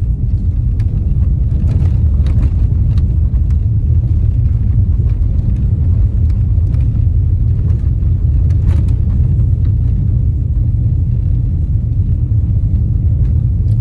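Steady low rumble of tyre and road noise heard inside a car's cabin, driving at about 40 mph on a snow-covered road, with a few faint clicks.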